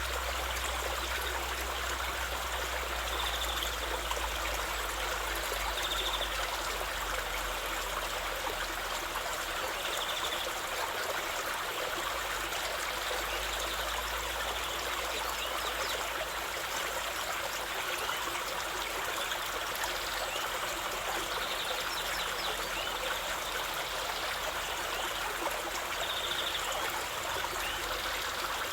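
Steady rushing and trickling of a flowing stream, with a few brief high-pitched sounds now and then.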